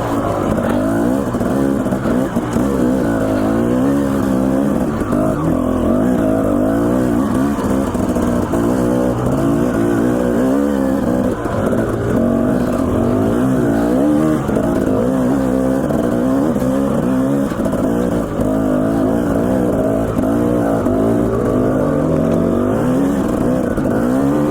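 Dirt bike engine running under the rider, its pitch repeatedly rising and falling as the throttle is worked on the trail.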